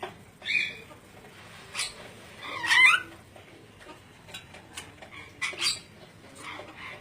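Ornate lorikeet giving short squawks and chattering calls, the loudest a warbling, pitch-bending call about three seconds in.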